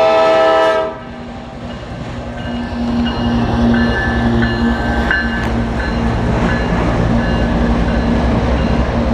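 CSX freight train's diesel locomotive horn sounding a chord that cuts off about a second in. Then the locomotives and railcars pass with a low rumble that grows louder, a steady engine hum, and a few brief high squeals.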